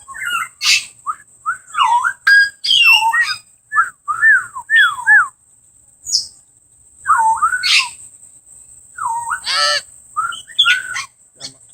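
Parrots whistling and squawking: a run of short whistled notes, each sweeping up and down in pitch, broken by a few harsh squawks.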